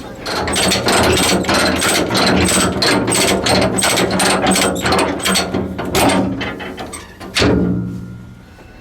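Train running, with rapid clicking and clanking from wheels and running gear over a steady low engine hum. There is a heavy clank about seven and a half seconds in, then the clatter fades.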